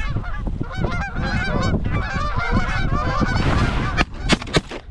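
A flock of geese honking, many overlapping calls at once, over a steady rumble of wind on the microphone. A few sharp cracks come in near the end.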